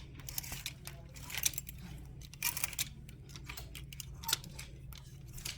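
Clothes hangers clicking and scraping along a metal clothing rack as shirts are pushed aside, with fabric rustling, over a steady low hum.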